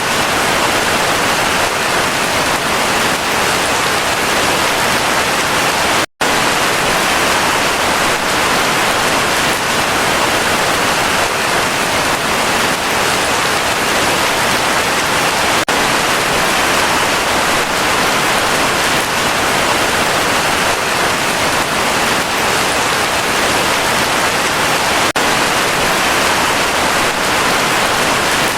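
Heavy rain falling steadily, a dense even hiss, cut off for a split second about six seconds in.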